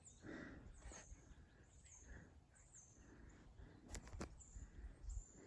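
Faint outdoor quiet with a small bird repeating a short, high, falling chirp about once a second. Two sharp clicks come about four seconds in.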